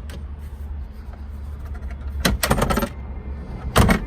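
Plastic interior parts of a pickup cab being handled: a short run of clicks and rattles about two seconds in, then one sharp knock near the end, over a steady low rumble.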